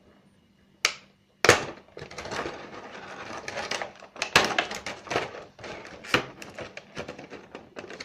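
Small plastic figure parts being handled and fitted together: a sharp click about a second and a half in, then a run of irregular clicks and crackly rustling.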